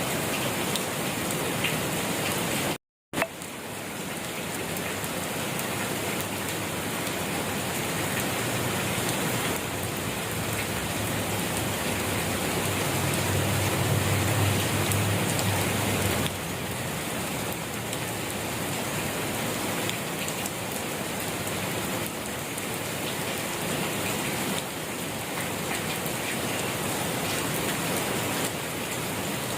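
Steady rain falling, an even continuous hiss and patter. It drops to silence for a split second about three seconds in, and a low rumble swells and fades around the middle.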